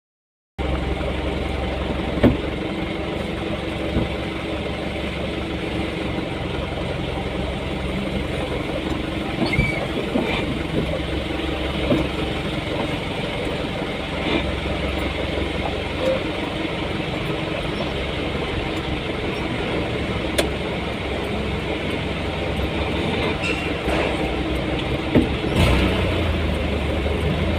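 A vehicle on the move: steady engine and road noise, with an occasional short knock or rattle.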